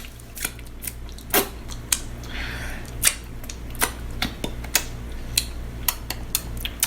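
A run of sharp clicks, roughly two a second and unevenly spaced, over a low steady hum.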